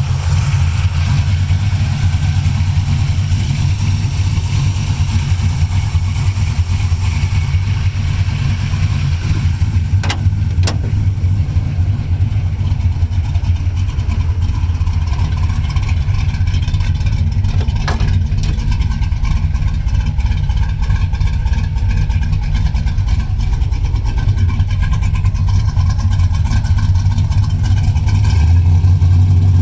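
1976 Chevrolet Camaro's engine idling steadily, with a few sharp clicks partway through and slightly louder near the end.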